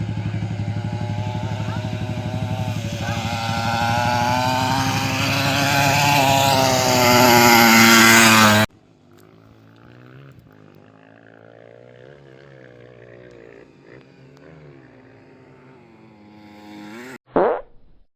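A 50cc kids' mini motocross bike's engine running, then revving up with its pitch climbing, before cutting off abruptly about halfway through. A much fainter engine follows, its pitch wavering up and down, and there is a short loud sound near the end.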